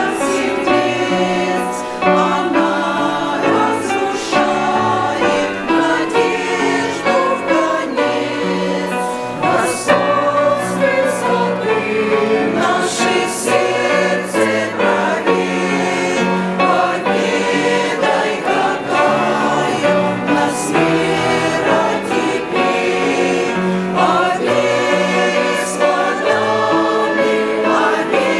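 Choir singing a hymn in harmony, with sustained low parts under moving upper voices.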